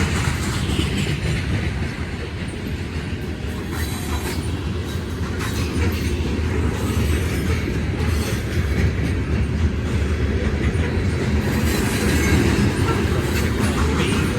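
Freight train of covered hopper grain cars rolling past at close range: a steady rumble of steel wheels on rail, with clicking over the rail joints and brief high squeaks now and then.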